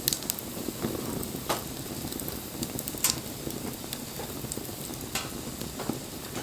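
Wood bonfire burning with a steady crackle and several sharp pops; the loudest pop comes about three seconds in.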